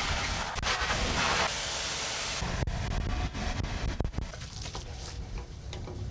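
Pressure washer spraying water on a Land Rover fuel tank: a loud hiss that cuts off about two and a half seconds in, followed by a few knocks, over a steady low rumble.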